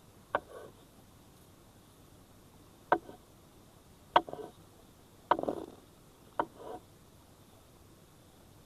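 Five sharp knocks at irregular intervals, each followed by a brief rattle or scrape, over a quiet background.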